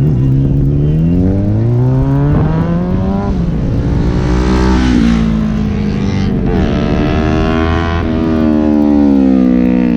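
Superbike engine accelerating hard through the gears: its pitch climbs, drops back at each upshift four or five times, then eases down near the end.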